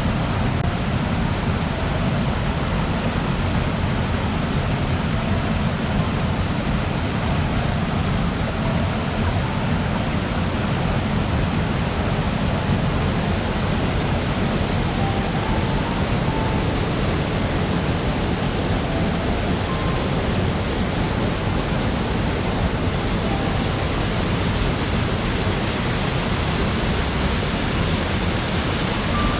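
Waterfall: water pouring and splashing in a steady, unbroken rush, heaviest in the low range.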